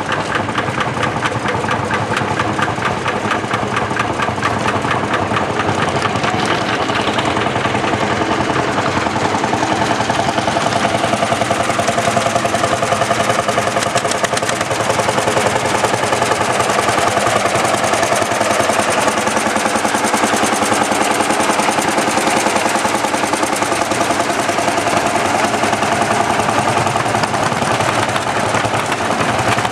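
Hot-bulb tractor engine running steadily with a fast, even knocking beat.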